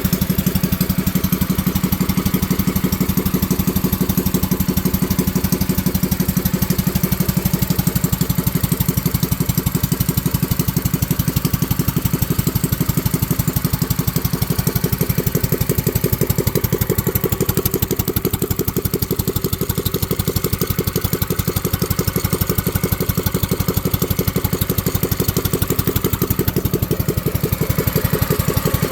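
Mini bike's small engine idling steadily with an even, rapid putter of firing pulses.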